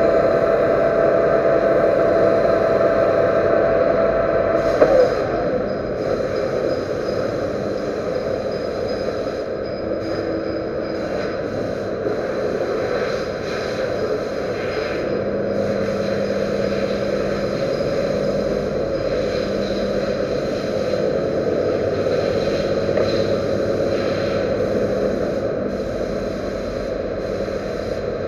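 Metal lathe running steadily while machining the servo motor shaft, with a steady hum. About five seconds in there is a brief knock and the pitch drops, then the machine runs on.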